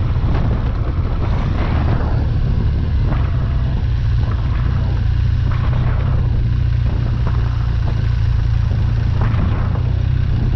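Motorcycle running while being ridden, with a heavy steady rumble of wind on the microphone over the engine.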